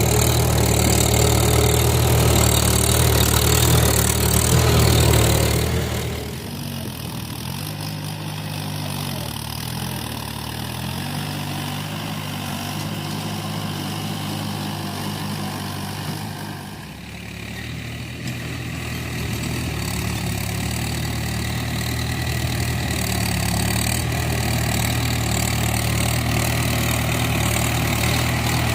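Tractor engine running throughout, its pitch wavering up and down. It is louder for the first six seconds, drops quieter until about halfway through, then grows louder again and stays steady.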